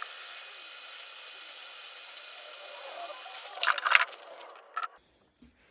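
A steady hiss, like a jet of air or spray, that cuts off after about three and a half seconds, followed by a few sharp clicks and knocks.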